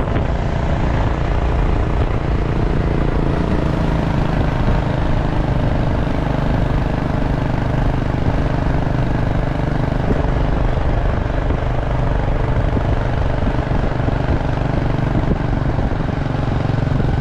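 Motor scooter running while being ridden, with wind rushing over the microphone, a loud steady noise heaviest in the low end.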